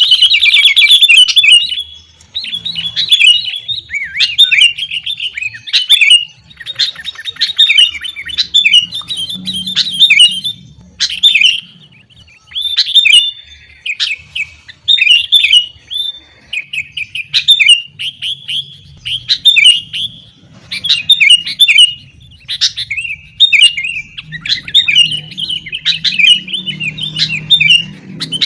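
Sooty-headed bulbul song: loud, chattering phrases about a second long, repeated one after another with short pauses.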